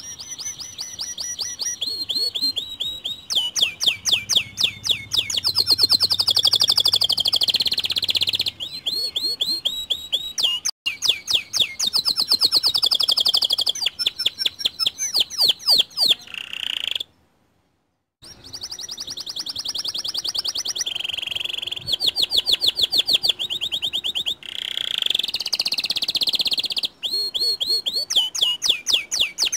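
White canary singing a long, fast song of rolling trills and rapidly repeated chirps, broken by about a second of silence a little past the middle.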